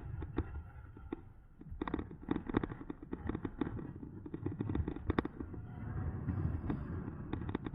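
Riding noise from an electric bicycle on a rough road: a low wind rumble on the bike-mounted microphone, broken by many sharp, irregular rattles and clicks, some coming in quick clusters.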